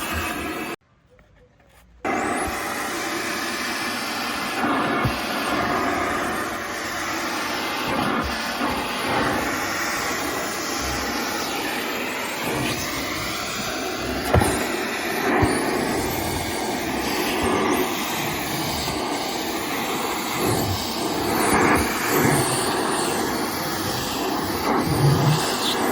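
SilverCrest SBZBK 850 B2 vacuum cleaner running with a steady rushing motor noise, briefly cut off for about a second near the start.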